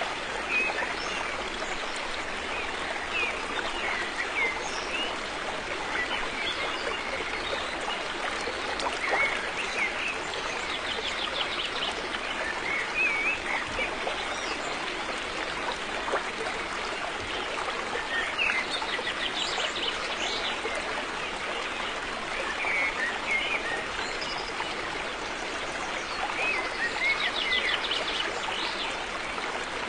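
A river flowing over stones in a steady rush and babble, with small birds chirping now and then above it.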